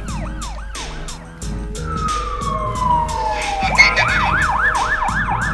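Cartoon emergency-vehicle siren sound effect wailing in quick rising-and-falling cycles, several a second. It breaks off about a second in, a long falling whistle-like glide follows, and the siren comes back faster near four seconds in, over a steady beat.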